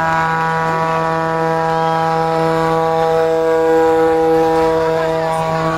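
Truck air horn held in one long, steady blast at a single pitch.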